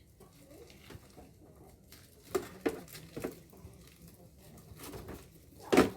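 A few scattered knocks and clatters from parts of an air-conditioner unit being handled while it is taken apart, the loudest just before the end.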